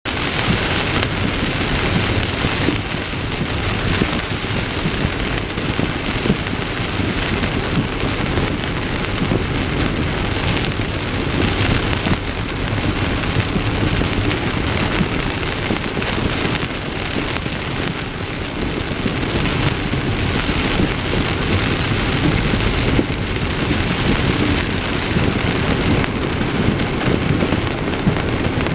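Heavy rain on a car, a dense steady patter of drops with a low rumble underneath.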